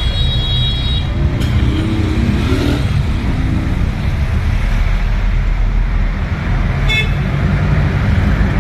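Slow road traffic: a steady low engine rumble, with a vehicle horn honking briefly at the start and a short toot near the end.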